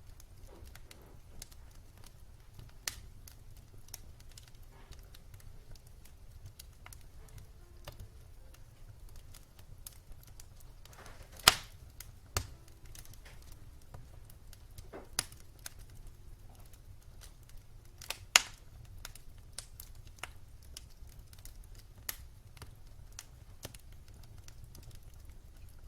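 Wood fire burning with irregular sharp crackles and pops over a low steady rumble; the loudest pops come about eleven and eighteen seconds in.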